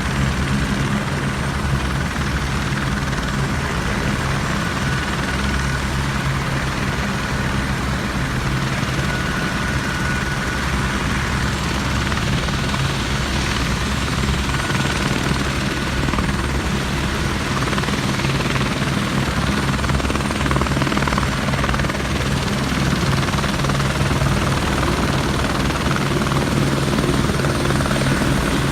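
Helicopter running steadily with a constant low throb from its rotor and engine.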